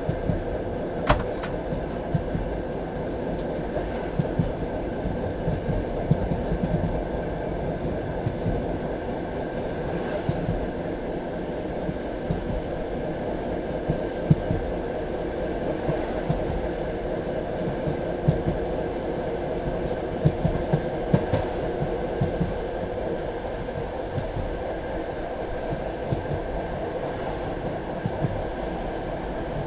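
Passenger railway carriage rolling along the track: a steady rumble of wheels on rail, with irregular sharp knocks as the wheels pass over rail joints.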